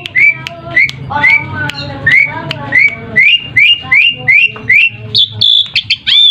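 Asian pied starling singing: a fast series of sharp, upward-hooked whistled notes, about three a second, broken about a second in by lower chattering warbles, with a higher held whistle near the end. It is a lure call meant to make other starlings answer.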